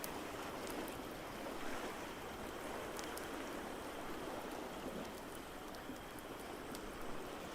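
Steady wash of ocean waves, with sparse sharp crackles and pops from a wood fire in a fireplace.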